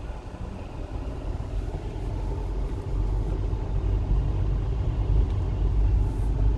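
Manual car's engine pulling away in first gear as the clutch is let out, a low rumble that grows louder over the first few seconds and then holds steady.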